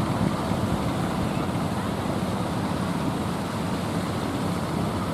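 Steady rumble and rush of strong wind and sea aboard a motor ship, with wind buffeting the microphone.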